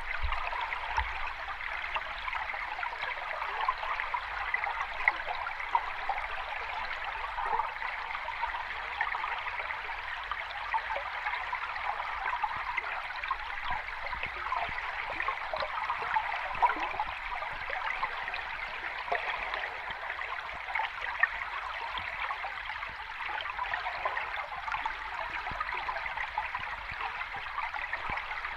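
Shallow sea water lapping and fizzing at the shore, a steady wash full of small splashes and crackles with no distinct breaking waves.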